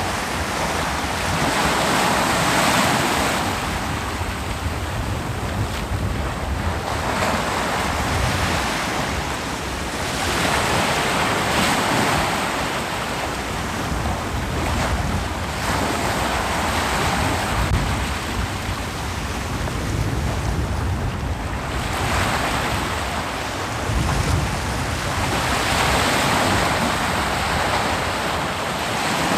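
Ocean surf: waves breaking and washing up a beach, a new wave swelling and falling back every four seconds or so over a steady rush of water.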